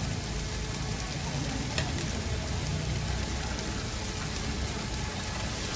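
Hoi tod (mussel and bean-sprout pancake) sizzling in hot oil on a large flat wok: a steady frying hiss, with one light tap about two seconds in.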